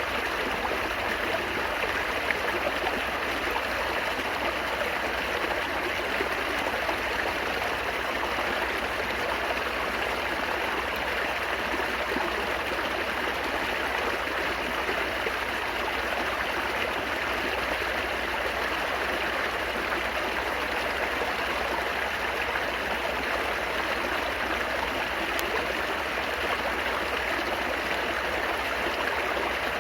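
Steady babbling and trickling of flowing stream water, without pause.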